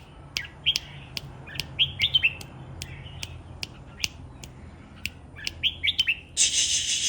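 Red-whiskered bulbul giving short chirping calls, with sharp ticks in between. Near the end a loud, harsh rasping burst lasts about a second.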